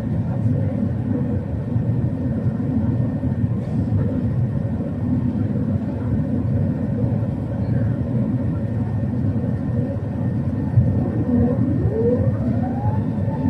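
Airbus A380 cabin noise on approach: a steady, deep engine and airflow rumble. Near the end, a whine rises in pitch over about a second and a half, then holds at a steady pitch.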